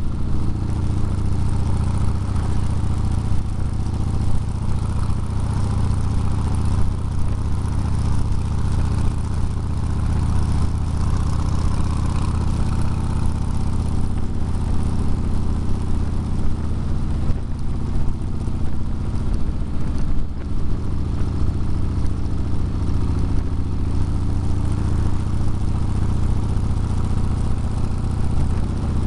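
Steady engine and road noise from a vehicle cruising at highway speed, heard from inside the vehicle: a continuous low hum with tyre and wind noise over it.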